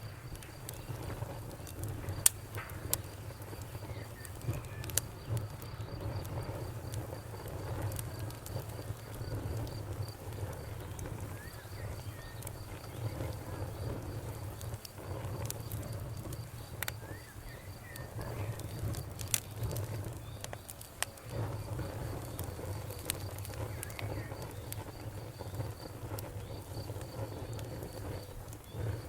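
Campfire crackling with scattered sharp pops, over the steady, fast chirping of crickets.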